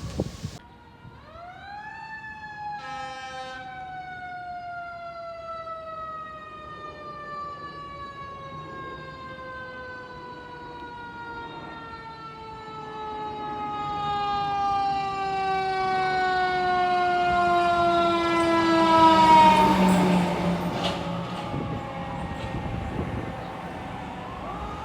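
Fire truck siren winding up, then falling in one long, slow wail, growing loudest as the truck passes about three-quarters of the way through, with a new rise near the end.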